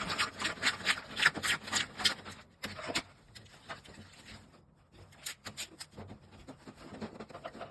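Hand-tool work on an air-conditioner installation: a quick run of sharp clicking strokes, about four a second, for the first two seconds or so, then quieter rubbing with a few scattered clicks.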